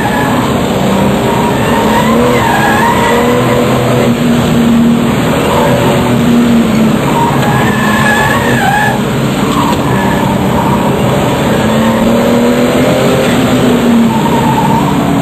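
RUF CTR Yellow Bird's twin-turbo flat-six engine running hard, its pitch rising and falling with throttle and gear changes. Brief high tyre squeals come a couple of seconds in and again about eight seconds in.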